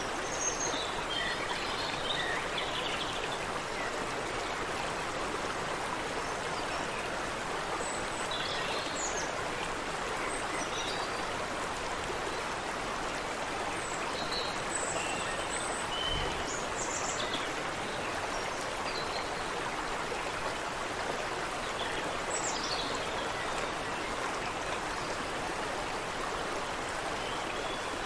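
Water running steadily in a small stream, with birds chirping in short, scattered calls throughout.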